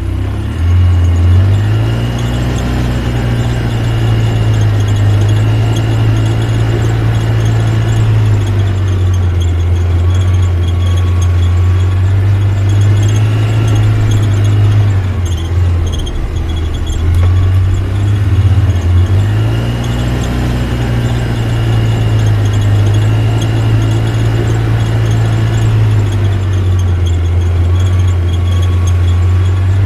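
Vehicle engine running hard with a strong low drone that rises and falls in pitch as it is revved, dipping briefly about halfway through.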